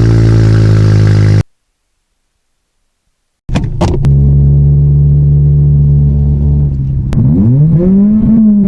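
Honda car engine idling steadily. It breaks off into about two seconds of dead silence, then idles again and is revved once near the end, the pitch rising and falling back.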